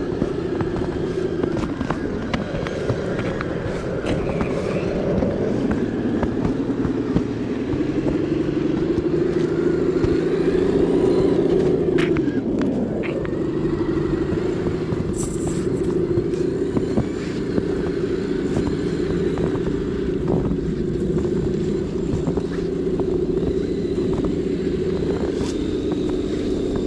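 Radio-controlled scale crawler truck's drivetrain running with a steady whine that dips and rises in pitch with the throttle, dropping sharply about halfway through, with scattered light clicks.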